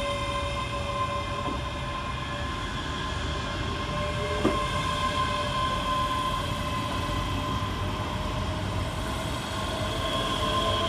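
Two coupled Class 385 electric multiple units running at the platform, giving several steady whining tones over a continuous low rumble. There is a single click about four and a half seconds in.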